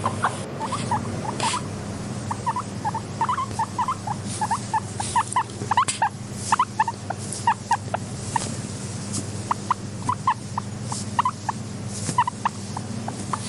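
Guinea pig making many short, high squeaks, several a second at an uneven pace, with occasional sharp clicks and a steady low hum underneath.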